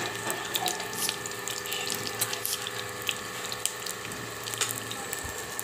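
A chicken leg piece shallow-frying in a little oil in a non-stick pan: a steady sizzle with frequent small crackling pops, over a faint steady hum.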